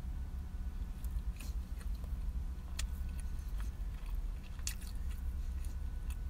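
Closed-mouth chewing of a toasted ham and cheese sandwich, with occasional soft mouth clicks, over a steady low rumble.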